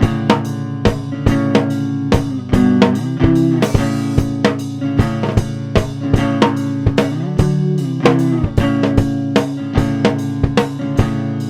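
Band music: guitar chords ringing over a steady drum beat of about three hits a second, with no singing.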